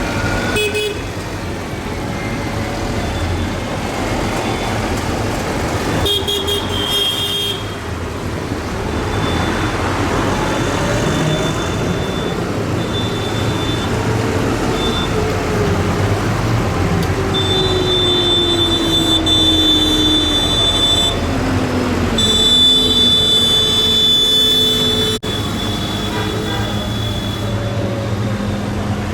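A procession of tractors passing along a road with engines running, some engines dropping in pitch as they go by. Horns toot several times: briefly about six seconds in, then in long blasts in the second half.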